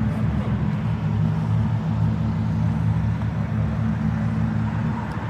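A car engine idling steadily, an even low rumble with no revving.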